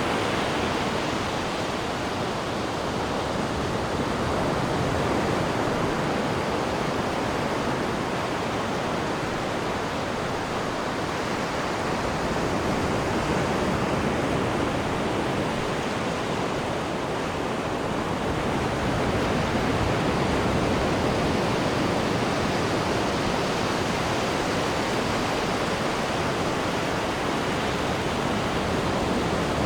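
Steady rush of water churning in a cruise ship's wake off the stern, with slow, slight swells in loudness.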